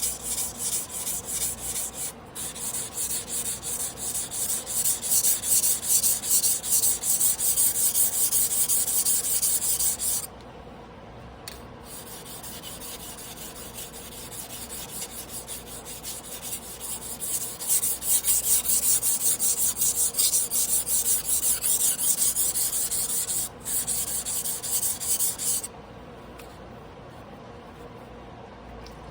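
Damascus carbon-steel sashimi knife being ground by hand on a whetstone: quick back-and-forth strokes with a gritty, hissing scrape. The strokes stop for a few seconds twice, about a third of the way in and again near the end.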